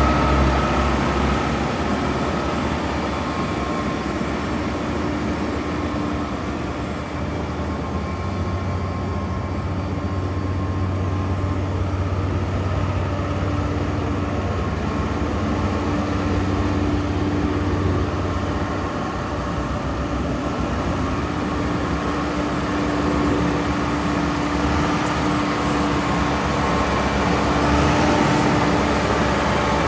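Case IH Vestrum 130 tractor's diesel engine running steadily, with a low hum and a faint high whine over it.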